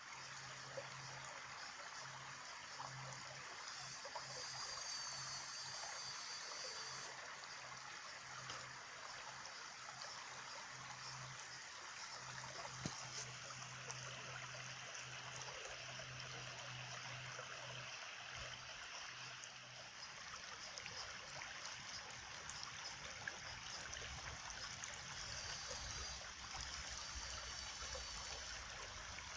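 A small stream trickling and gurgling steadily over stones, with a faint high warbling about four seconds in and again near the end.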